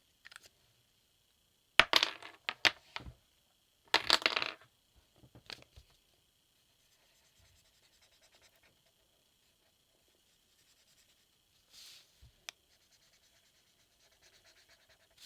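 Colouring pens being handled: two loud clusters of hard plastic clicks and clatter in the first few seconds, a few single clicks later, and faint scratching of a pen on paper in between.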